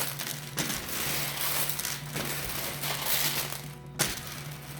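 Toy monster truck being driven by hand through loose Skittles candies: a continuous rattling, crunching clatter of scattering candy with a few sharp knocks, over background music.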